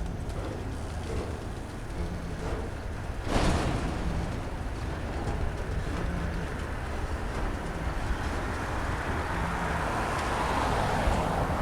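Freight train rolling past, a steady rumble and rolling noise of the cars going by, with one brief louder burst of noise a little over three seconds in.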